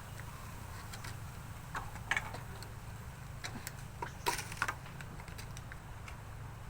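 A handful of light, irregular clicks and taps, the sharpest about two seconds in and about four seconds in, over a steady low hum.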